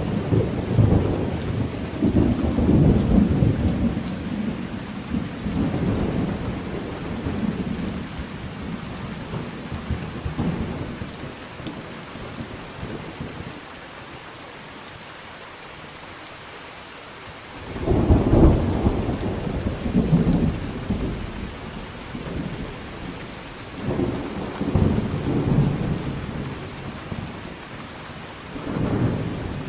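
Thunderstorm: steady rain with repeated rolls of thunder. A long rumble fades away over the first half, then after a short lull a sudden loud peal breaks about two-thirds in, followed by two more rumbles near the end.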